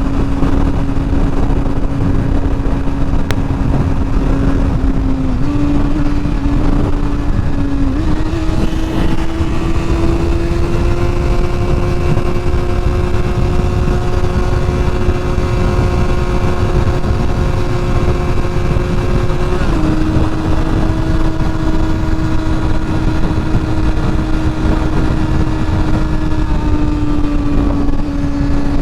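Honda CBR sport bike engine running at a steady cruise, with its pitch stepping up a little a few times and easing off near the end, over heavy wind rush on the rider's microphone.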